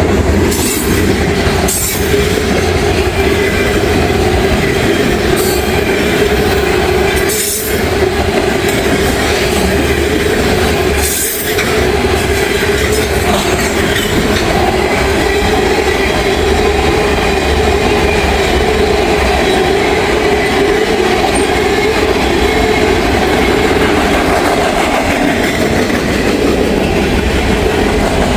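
Freight train cars rolling past close by: steady rumble and clatter of wheels on the rails, with a sustained high squeal from the wheels.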